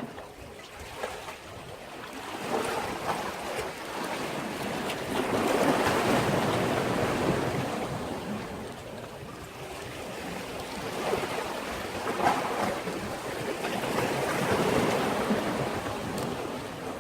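Sea waves surging in against a breakwater and washing back, in slow swells; the biggest comes about a third of the way in, with smaller ones near the end.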